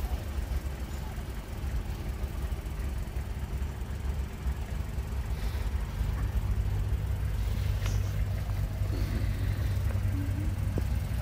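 Mitsubishi Pajero iO's 1.8-litre petrol engine running under throttle as the SUV crawls through mud, its low steady drone getting louder about six seconds in.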